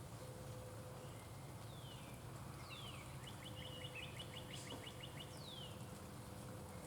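Songbird calling at a feeder: a few clear whistles that slide downward in pitch, and between them a quick run of about ten short notes in a second, over steady low outdoor background noise.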